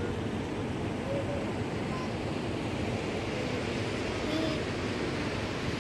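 Fast-flowing mountain river rushing steadily, with faint voices heard now and then over the water.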